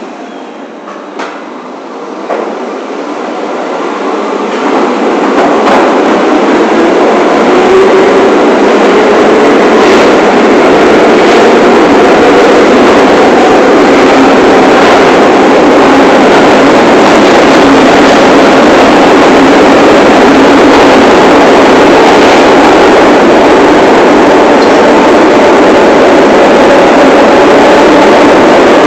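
New York City subway train (1 line) running: its noise grows over the first several seconds as it picks up speed, then holds steady and loud, with a steady hum under the rumble and occasional clicks.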